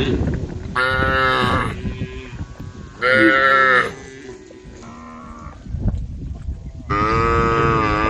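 Cows mooing: three loud calls about a second each, with fainter moos between them, the last loud one still going at the end.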